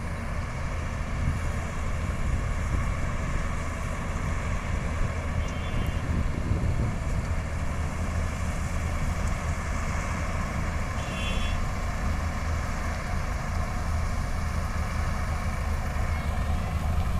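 Combine harvester running steadily while harvesting: a constant low engine drone with a noisy rush of machinery over it.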